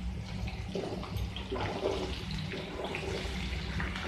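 Cauliflower florets sizzling and crackling as they fry in hot oil in a kadai, flaring up as more florets are dropped in, over a steady low hum.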